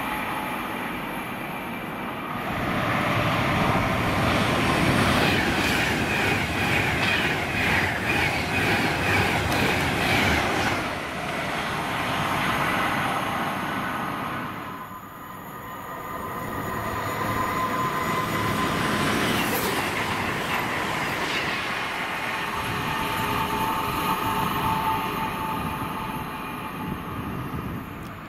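Train passing at speed, its wheels clicking in a regular rhythm over the rail joints. The sound swells twice, dipping about halfway through before building again.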